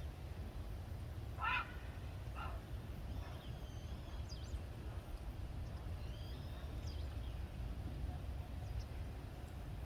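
Wetland birds calling over a steady low wind rumble: a loud harsh call about one and a half seconds in, a shorter one a second later, then several thin, high, gliding calls.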